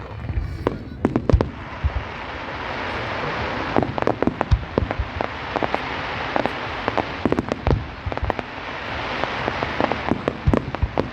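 Fireworks going off: a dense, irregular run of sharp bangs and pops over a continuous crackling hiss.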